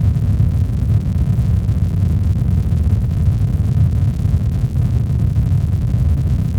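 Steady synthetic sleep noise, weighted to the low end: an even, deep rumble with little hiss.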